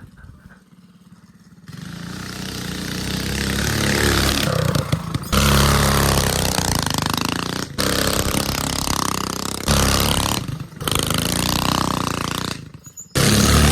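Mini bike engine running under throttle: the revs and loudness climb, then it runs in several stretches that start and stop abruptly.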